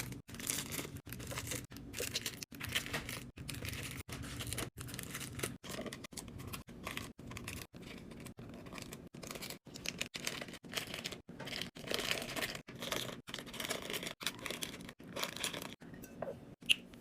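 Plastic packaging being torn open and crinkled, in short choppy snippets with brief dropouts between them, over a faint low steady hum.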